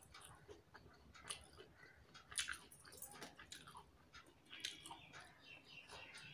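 Faint chewing and mouth clicks from someone eating rice by hand, with scattered soft clicks at irregular intervals; the sharpest comes about two and a half seconds in.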